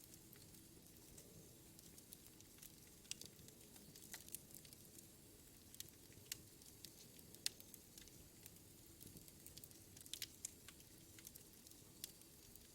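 A wood fire burning in a fireplace, crackling softly. Irregular sharp snaps and pops sound over a low, steady hiss, with a few louder pops about halfway through and again a little later.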